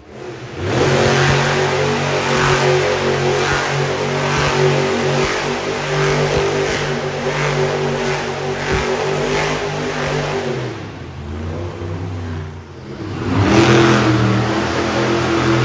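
Monster truck engine revving hard, pitch climbing just after the start and holding high, easing off briefly near the end and then revving up again.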